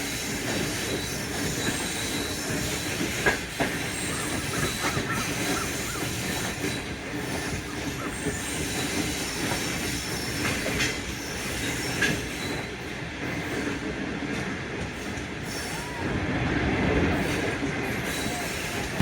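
Passenger train rolling slowly into a station stop, its wheels squealing now and then, with a few sharp clicks.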